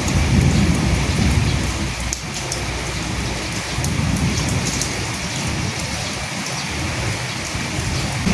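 Steady rain falling, with scattered individual drop ticks on top. A low rumble swells in the first second or so and again about four seconds in.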